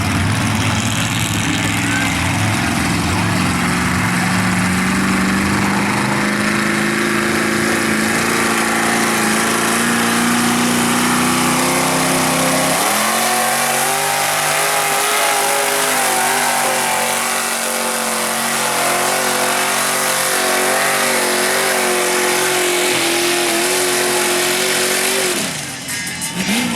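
Tractor-tire mud truck's engine running hard at high revs. The pitch climbs slowly for about twelve seconds, jumps to a higher pitch that holds steady, then drops off near the end.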